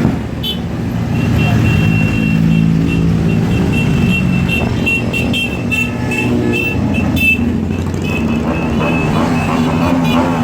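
Motorcycle engines running steadily at low revs, over a murmur of people. A series of short high-pitched tones repeats irregularly from about a second in.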